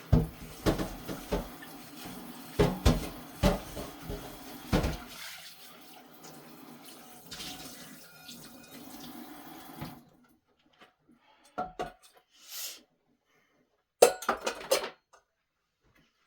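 Kitchen tap running into a sink while dishes are washed, with repeated clinks and clatter of dishes in the first few seconds. The water shuts off suddenly about ten seconds in; after that come a few faint knocks and a short burst of dish clatter near the end.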